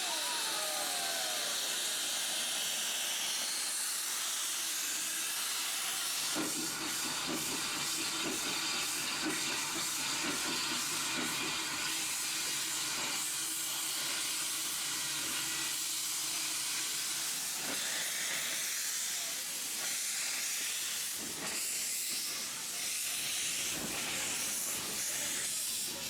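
Steady hiss of steam escaping from a steam locomotive, strongest in the upper register, with a brief falling squeal right at the start.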